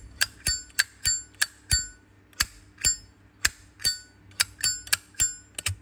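Zippo lighter's hinged lid flicked open and snapped shut over and over, a quick run of sharp metallic clicks, about three or four a second, many ringing with the bright Zippo 'ping'. The ring comes only when the lid is flicked open hard.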